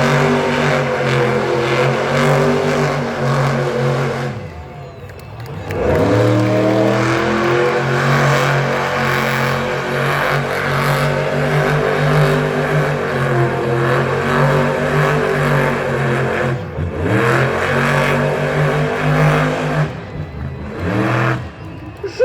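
Monster truck engine revving hard and held near full throttle. It drops off about four seconds in, again around two-thirds of the way through and near the end, and each time its pitch sweeps back up as the throttle reopens.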